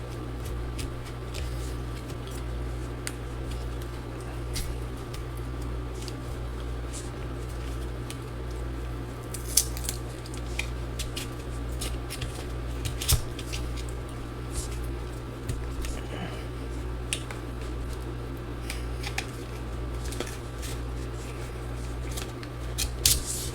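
Plastic pry cards scraping and clicking against a MacBook Pro battery cell as they are worked under its adhesive to free it, with scattered sharp clicks and a few louder snaps. A steady low hum runs underneath.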